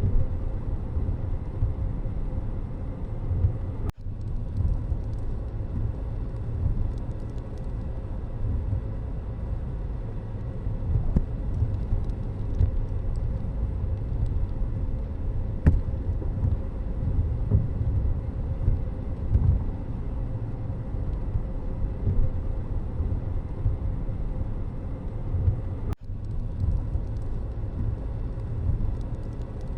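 Steady low rumble of a road vehicle in motion, cutting out for an instant twice, about four seconds in and a few seconds before the end.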